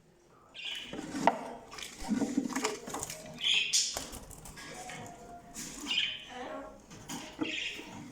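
Caged canaries and goldfinch hybrids giving short, scattered chirps and squawks, with a few light clicks and knocks from the cages.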